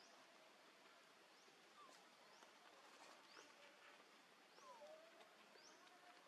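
Near silence: faint outdoor ambience with a short, high, rising bird chirp repeated about once a second, and a few fainter lower whistled glides.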